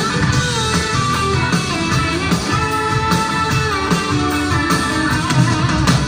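Live rock band playing an instrumental break between song sections: a guitar carries the melody over bass and a steady beat, with no singing.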